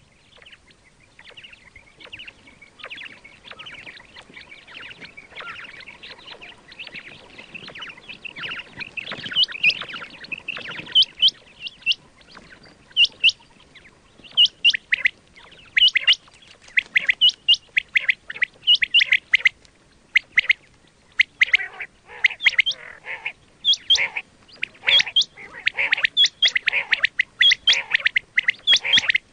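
Quail calling over and over: a dense run of short, sharp, high chirping calls, faint at first and loud and quick from about nine seconds in.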